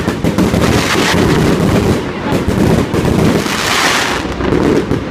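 Fireworks salute going off: a dense run of overlapping booms and bangs, with a burst of crackling about three and a half seconds in.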